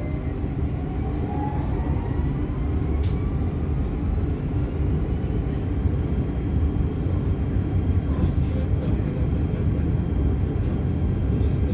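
Passenger train pulling away from the platform, heard from inside the carriage: a steady low rumble with a faint whine that rises slowly in pitch as the train picks up speed.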